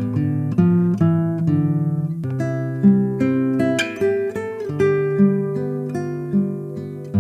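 Background music: an instrumental piece on acoustic guitar, plucked and strummed notes.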